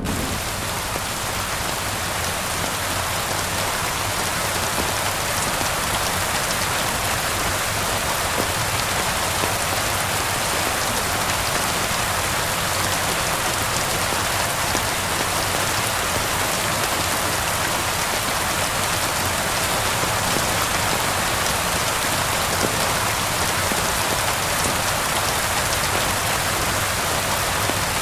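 Steady rain falling: an even, unbroken hiss with scattered faint ticks of drops.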